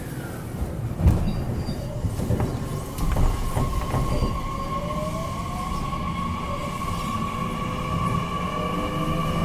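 Inside the motor car of a JR Kyushu 813 series electric train: wheels rumbling on the rails, with two knocks in the first three seconds. From about three seconds in, a steady whine joins with tones rising in pitch from the traction motors and VVVF inverter as the train picks up speed.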